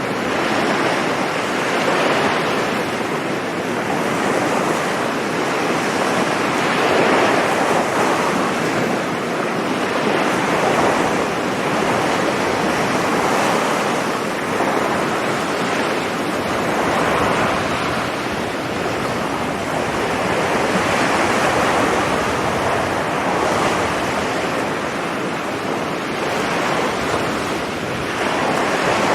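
Sea surf breaking and washing on a beach, swelling and easing every few seconds, with some wind on the microphone.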